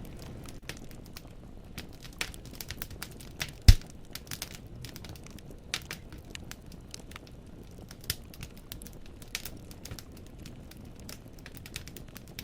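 Firewood burning in a fireplace, crackling with irregular small pops and one loud sharp pop about four seconds in, over a steady low rumble.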